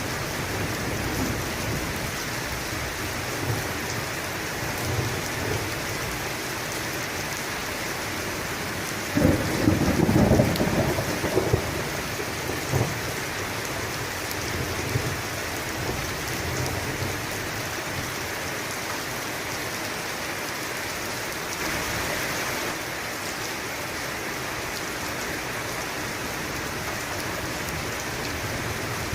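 Steady heavy rain falling on a surface, with a roll of thunder rumbling for about two seconds roughly a third of the way through.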